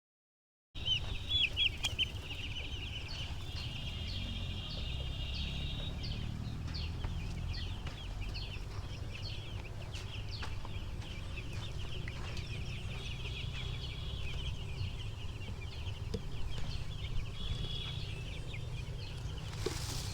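A flock of seven-day-old broiler chicks peeping continuously, many short high chirps overlapping, over a low rumble.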